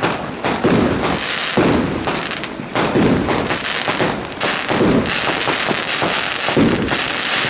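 Fireworks display: repeated bangs, roughly one a second, over continuous crackling from the shells.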